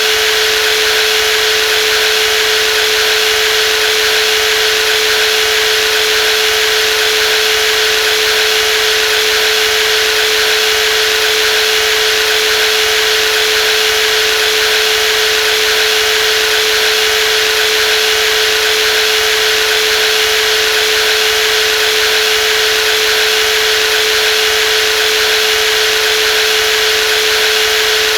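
Brushless jigsaw running at a constant speed: one steady mid-pitched tone over a broad hiss, unchanging throughout.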